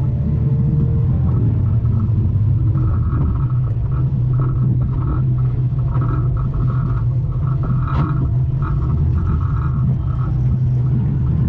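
Morris 1100 banger's engine running under racing load, heard from inside the stripped-out cabin as a steady low drone. A single short knock about eight seconds in.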